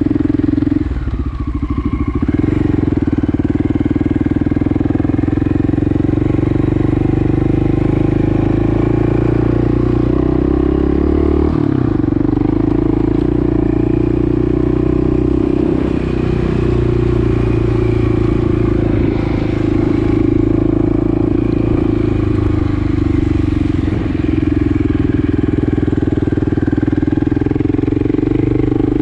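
Honda XL600R's single-cylinder four-stroke engine running steadily as the bike is ridden. The engine note dips briefly about a second in and changes pitch abruptly about twelve seconds in.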